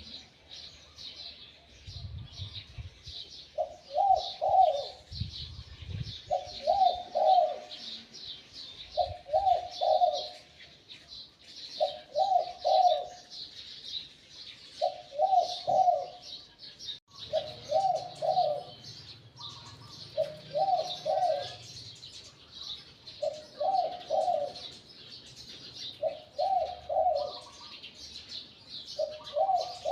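A spotted dove cooing, a short multi-note coo phrase repeated steadily about every two and a half to three seconds. Small birds chirp continuously in the background, and there are a couple of low thumps near the start.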